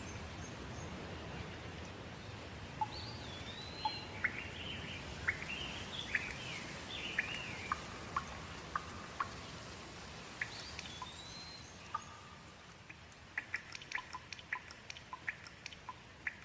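Steady rain hiss with a songbird calling in short, sliding whistled notes. Near the end the rain thins and a quick run of separate drips ticks.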